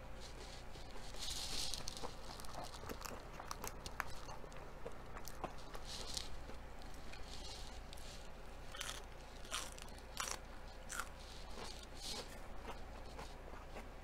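Close-miked eating sounds: a person chewing and biting crisp food, with many sharp crunches and wet clicks, including bites into a crisp lettuce leaf.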